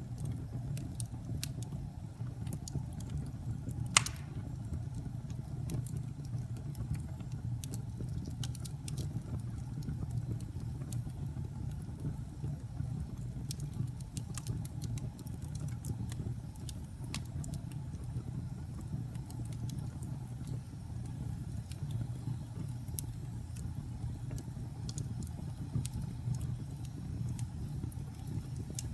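Wood fire burning in a fireplace: a steady low rumble of the flames with scattered crackles, and one loud pop about four seconds in.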